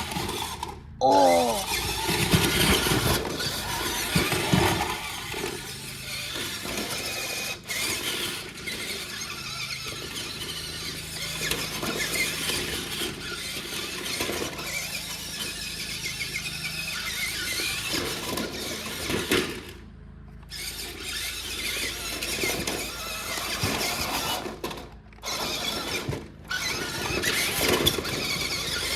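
RC monster truck driving, its motor and gears whining and wavering in pitch with the throttle, and dropping out briefly a few times, about twenty seconds in and twice more shortly after.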